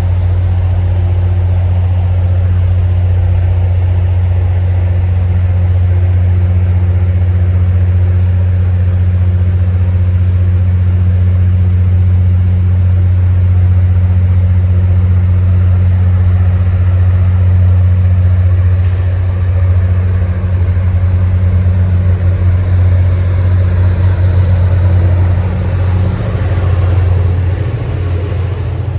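Diesel commuter rail locomotive engine running steadily at a station stop, a loud low hum. From about two-thirds of the way through, the sound turns uneven and pulsing.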